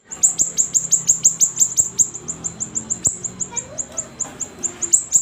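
Siri-siri bird singing vigorously: a fast, sustained run of sharp high chirps, each dropping steeply in pitch, about five or six a second.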